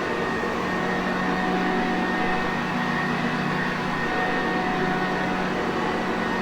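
Sanitaire vacuum cleaner running steadily: an even rush of air over a constant motor hum with a fixed higher whine, with no change in speed.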